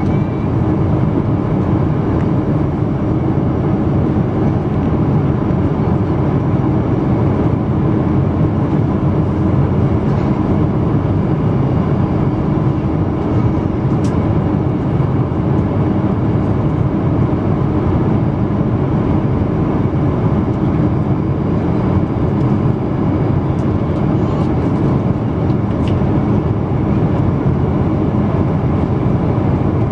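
Steady roar of a Boeing 777-200's engines and airflow heard inside the cabin, with faint steady tones under it and no rise or fall in level. A couple of faint clicks sound about halfway through and near the end.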